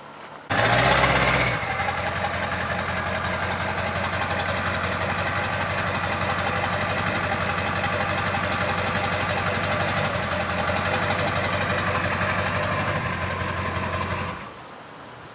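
A motor vehicle engine comes in abruptly with a louder first second, then runs at a steady idle before cutting off near the end.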